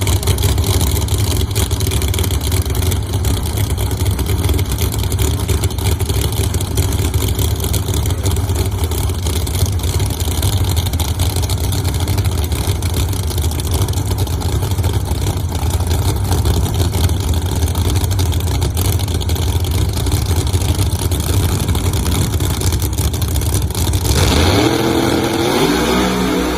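Steady low engine rumble, with an engine revving up, rising in pitch, about 24 seconds in.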